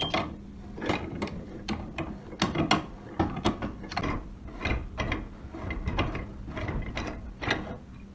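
A run of short mechanical clicks and scrapes, about one or two a second, that stops shortly before the end.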